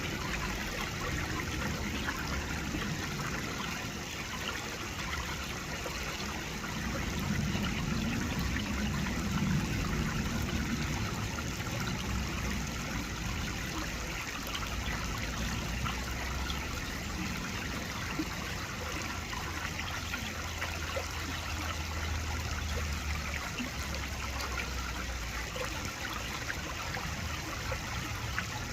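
Steady running water, a stream trickling and burbling.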